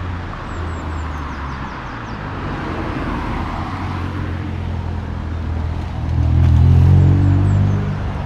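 Ford Fiesta ST with a Milltek aftermarket exhaust, engine running steadily, then getting louder about six seconds in and easing off again near the end.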